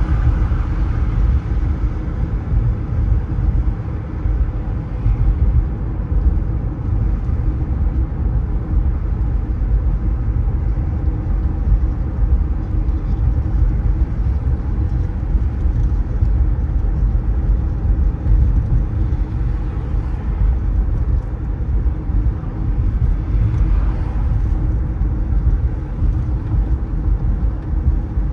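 Steady low rumble of a car driving on city roads: engine and tyre noise with a faint hiss of road and traffic above it.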